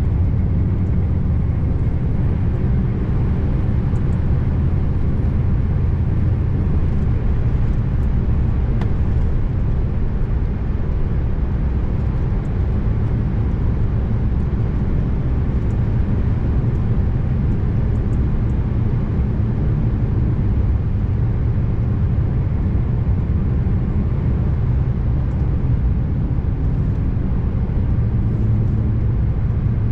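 Scania R590 V8 truck engine running steadily under way, a continuous low drone mixed with road and tyre noise.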